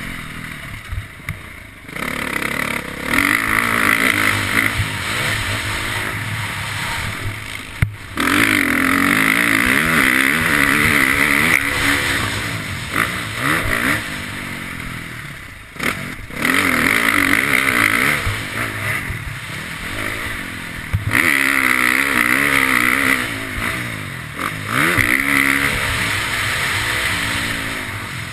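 KTM motocross bike engine revving up and falling back over and over, the throttle chopped briefly about 2, 8 and 16 seconds in before it pulls hard again.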